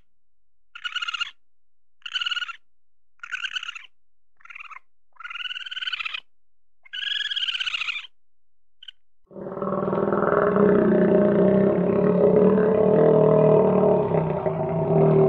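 A raccoon gives a series of about seven short, high-pitched squealing calls, each arching in pitch and a second or so apart. About nine seconds in, a crocodile's long, deep, steady call sets in and is louder than the squeals.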